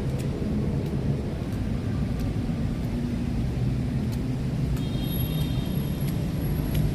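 Steady low rumble of city road traffic, with vehicle engines humming.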